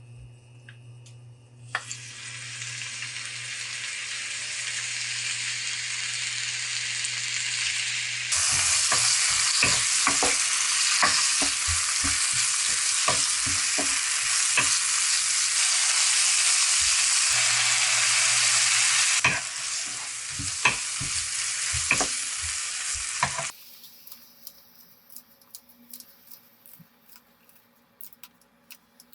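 Food sizzling as it is stir-fried in a pan, with a spatula clicking and scraping against the pan as it is stirred; the sizzle gets louder partway through. Near the end the sizzling cuts off, leaving only faint clicks.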